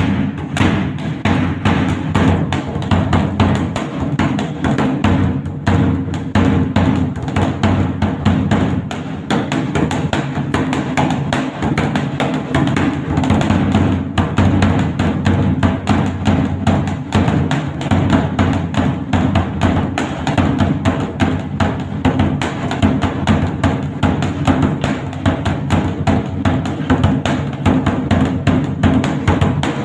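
Dhak, a large double-headed barrel drum, beaten with sticks in a fast, unbroken rhythm of dense strokes with a deep, booming body.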